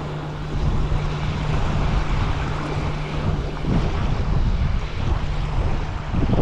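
Strong gusty wind buffeting the microphone, a dense rushing noise with a heavy low rumble. A steady low hum runs under it for the first few seconds, then stops.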